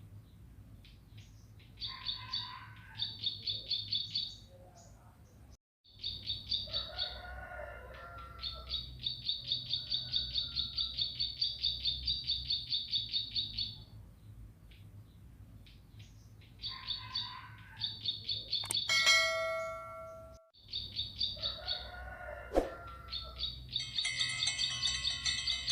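Bar-winged prinia (ciblek) singing: long runs of rapid, evenly repeated high chirps, about five or six a second, broken by lower warbling phrases. A brief ringing sound with several steady tones about nineteen seconds in.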